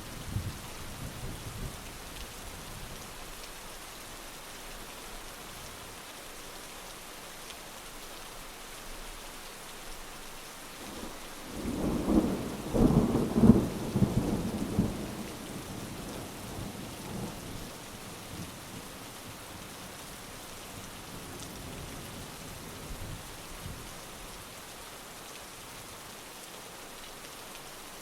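Steady heavy rain falling, with a long roll of thunder that builds about eleven seconds in, peaks in a few loud cracks, and rumbles away over several seconds; a fainter rumble of thunder dies out near the start.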